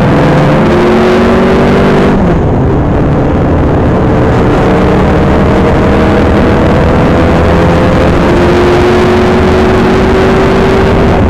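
TVR Cerbera 4.5's V8 engine heard from inside the cabin under hard acceleration, its note climbing steadily through the gears. There are upshifts about two seconds in and again about three seconds before the end, over heavy wind and road noise.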